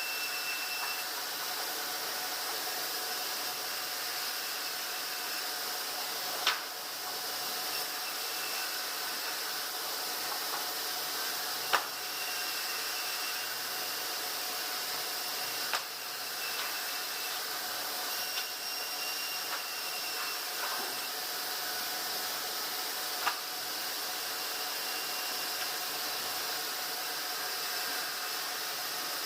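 Steady hissing machinery noise of a sawmill with a faint steady hum, broken by four sharp knocks spaced several seconds apart.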